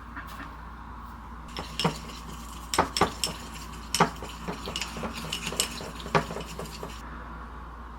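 Cutlery clinking and tapping against dishes: a run of sharp clicks from about a second and a half in until about seven seconds, over a steady low hum.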